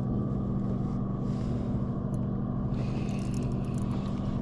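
A steady low motor hum, like a boat motor running, with a few faint light clicks about three seconds in.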